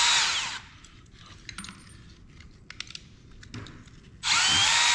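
Power drill running briefly as it drives out a screw, its motor whine gliding in pitch, then a few light clicks and taps of small metal parts being handled, and the drill running again near the end.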